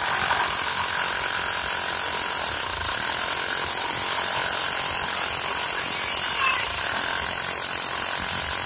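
Corded electric jackhammer (rotary hammer set to hammer-only mode) running continuously, its bit hammering rapidly into rock to break it.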